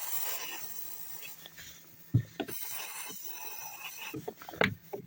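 Aerosol can of silicone lubricant hissing as it sprays onto a squeaking strut mount, which is suspected of sitting off-centre and rubbing the strut tower. A few sharp clinks or knocks come about two seconds in and near the end, the last the loudest.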